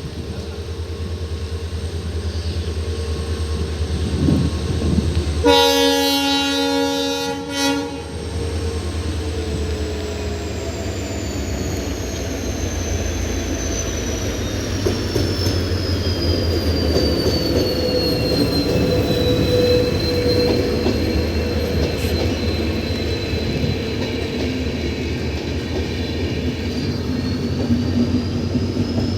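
Diesel-hauled express train passing at close range with a steady low rumble. About five seconds in, the locomotive sounds one horn blast of about two seconds. After that, a high wheel squeal slides down in pitch as the coaches roll by.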